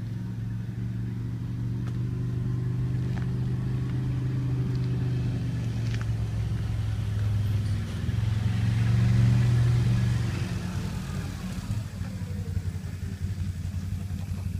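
An engine running steadily. It grows louder about eight seconds in, then fades after about ten seconds, its pitch sliding down as it fades.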